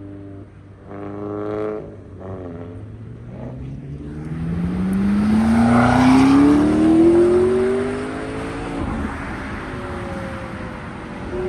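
A car accelerating hard away: its engine note climbs steadily in pitch for several seconds and is loudest in the middle. Near nine seconds in the pitch drops sharply at a gear change, and the engine pulls on at a lower level.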